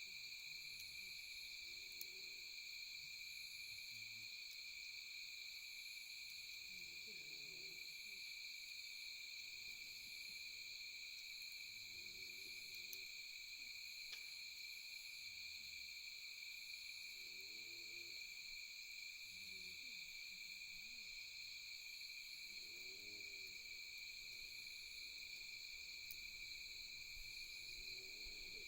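Faint night chorus of crickets and other insects: a steady, high-pitched trilling in several bands, with a softer repeating chirp above it. Faint low calls recur every few seconds, and there are a few faint clicks.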